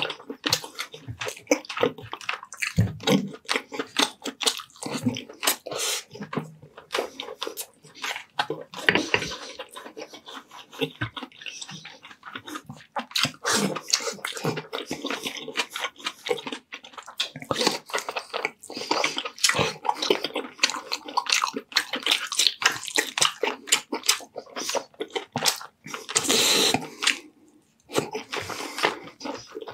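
Close-miked mouth sounds of a man eating fatty braised pork belly adobo with rice: a steady run of chewing and lip-smacking clicks, with a longer smacking burst near the end.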